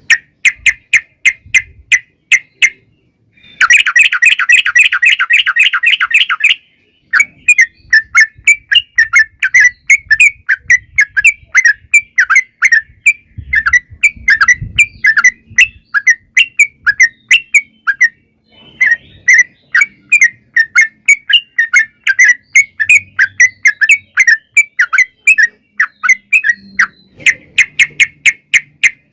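Yellow-vented bulbul (trucukan) calling in long, rapid runs of short chirping notes, with a dense, fast rattle of notes about 4 to 6 seconds in and brief pauses between runs.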